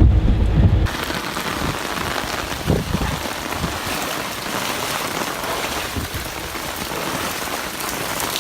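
Heavy rain from Hurricane Harvey falling, a steady dense hiss that starts abruptly about a second in, after a low rumble cuts off.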